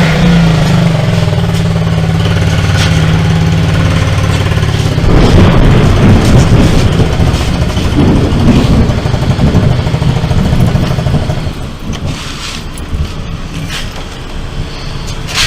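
A steady low motor hum. About five seconds in, a long, loud rumble of thunder begins and dies away after about six seconds.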